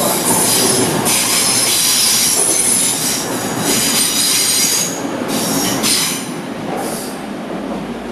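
TransPennine Express Class 185 diesel multiple unit running through the station without stopping. Its rumble is topped by high-pitched wheel squeal that comes and goes in stretches. The sound eases off over the last couple of seconds as the train draws away.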